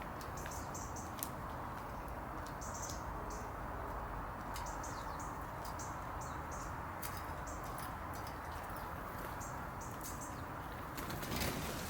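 Small garden birds chirping: short high calls in quick clusters, over a steady background of outdoor noise, with a brief louder rush of noise near the end.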